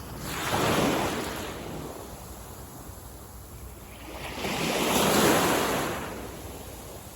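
Ocean waves breaking on the shore, two surges about four seconds apart, each swelling to a hiss and washing away.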